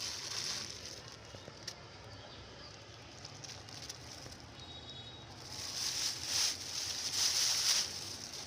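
Crackling rustle of an old plastic sheet being handled as it is pulled from the soil. It is loudest in the last few seconds.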